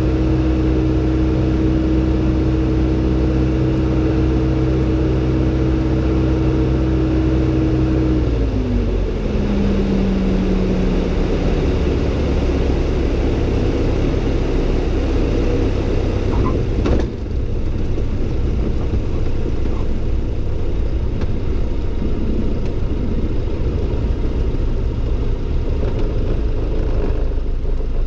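Light aircraft's four-cylinder Lycoming piston engine and propeller running steadily in the cockpit. About eight seconds in the revs drop with a falling pitch to a lower, rougher idle. A short click comes about seventeen seconds in.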